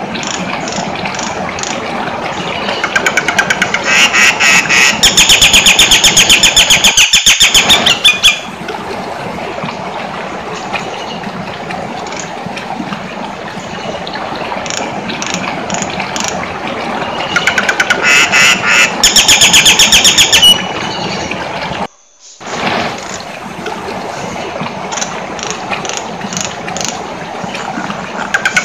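Jalak nias bird calling: two long bouts of rapid, loud, rattling chatter, the first about 3 seconds in and the second about 17 seconds in, over a steady background hiss.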